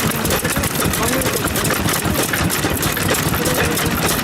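Old Japanese stationary farm engines (hatsudoki) running, a fast, uneven stream of exhaust beats that never lets up.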